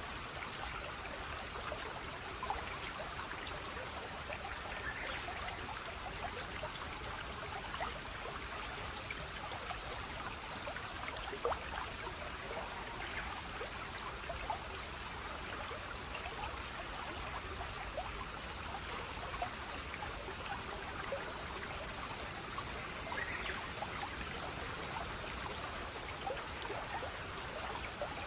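Small stream of running water trickling steadily, with many small bright plinks of water scattered through the flow.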